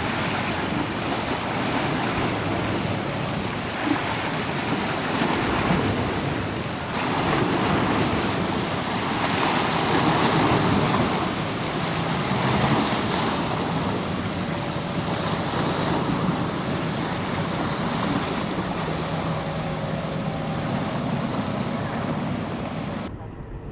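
Surf breaking and washing at an ocean inlet, with wind buffeting the microphone and swelling and easing in waves. Under it a boat's engine drones steadily in the second half. The sound cuts off abruptly near the end.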